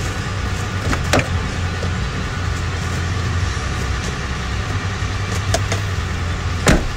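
Car engine idling steadily, left running to warm up in the cold. A few short sharp knocks sound over it, the loudest near the end.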